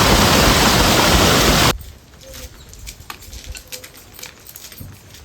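A loud, steady rushing noise that cuts off abruptly just under two seconds in. After it there are only faint scattered clicks.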